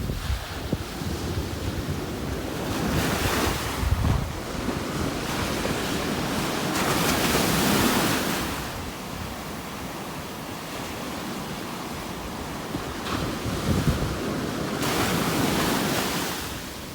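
Ocean surf breaking and washing up a sandy beach, with louder waves swelling and fading about three seconds in, around seven seconds in, and near the end. Wind buffets the microphone in low rumbles, mostly in the first few seconds.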